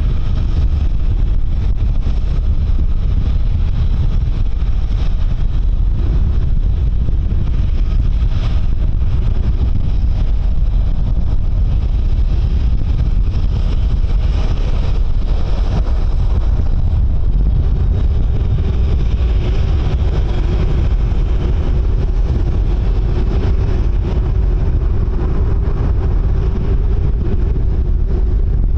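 Wind buffeting the microphone as a steady low rumble, over the sound of a jet aircraft's engines at the airport; a faint steady engine tone comes in about two-thirds of the way through.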